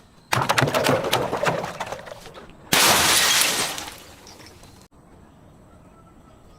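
Glass breaking: a sudden break about a third of a second in, then many small cracks and clinks for about two seconds, then a second, louder shattering crash just before the three-second mark that dies away over about a second.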